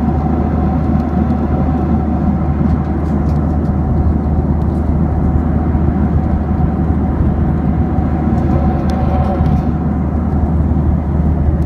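Jet airliner heard from inside the cabin: a loud, steady low rumble of engines and airflow with a faint steady whine above it.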